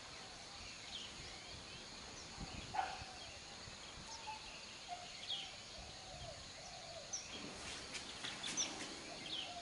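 Faint outdoor ambience with birds calling: short high chirps and lower wavering calls that come and go over a steady low background hiss.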